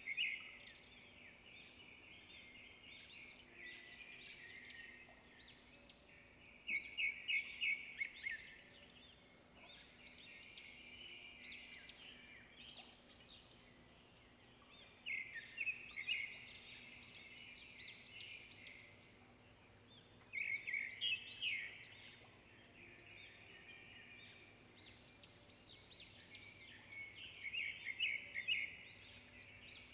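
Birds singing: bursts of rapid, high chirping phrases every several seconds, with softer chirps in between, over a faint steady hum.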